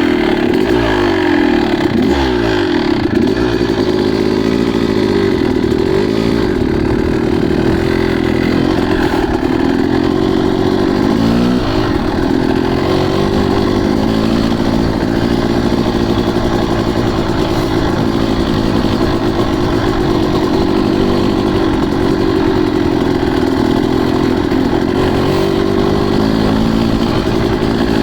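Motocross dirt bike engine running loud and steady, its revs rising and falling as the rider works the throttle.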